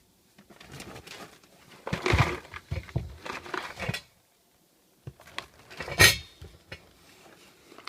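Food packages and containers being handled on a hard surface, rustling and clattering, with one sharp knock about six seconds in.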